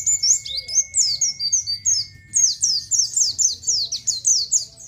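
Pleci (white-eye) singing a fast run of high, downward-sliding 'ciet ciet' chirps, about four or five a second, with a short break about halfway. A faint steady high whistle sits under the first half.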